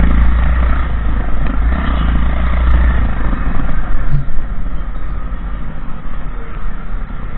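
Motorcycle on the move: engine, road and wind noise, with a heavy deep rumble that eases about three seconds in.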